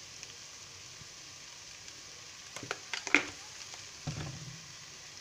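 Shredded chicken sizzling gently in oil in a metal pan, with a few sharp clicks of a utensil on the pan about two and a half to three seconds in and a duller knock about a second later.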